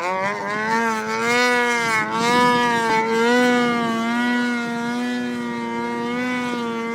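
Arctic Cat M8 snowmobile's two-stroke twin engine held at high, nearly steady revs, its pitch wavering slightly.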